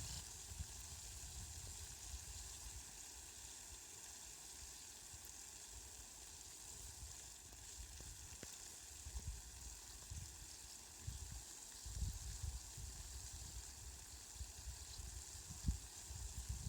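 Steady, faint rain hiss, with low rumbles coming and going in the second half.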